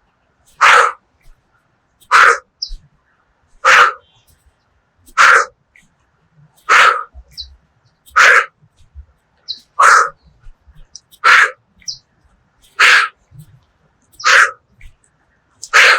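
A person breathing out forcefully through the mouth in a steady rhythm, one short harsh breath about every second and a half, as part of a qigong activation exercise.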